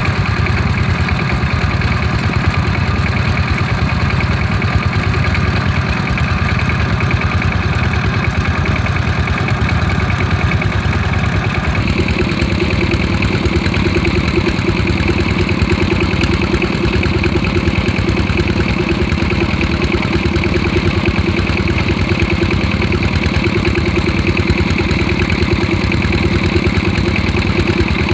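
Stationary diesel engines running steadily, driving irrigation water pumps. About twelve seconds in, the engine sound changes abruptly and then holds steady.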